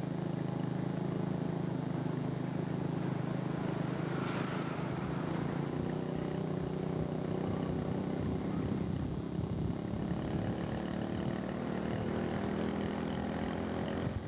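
Engine of a stretched 1940 Cadillac limousine running as the car drives past, a steady low drone that thins out in the second half.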